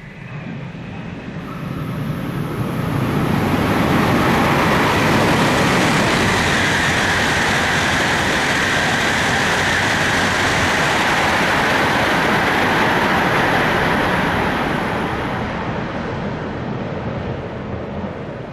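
Jōetsu Shinkansen bullet train passing through the station at speed: a loud rush of air and wheel noise that builds over about three seconds, holds for about ten, then fades away.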